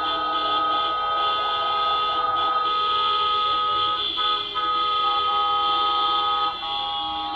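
Several vehicle horns sounding at once in long, held blasts, overlapping into a steady chord that shifts a little past the middle.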